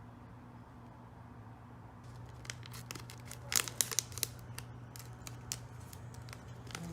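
Crinkling and clicking from something being handled close up: a run of sharp crackles starting about two seconds in, loudest around the middle, over a steady low hum.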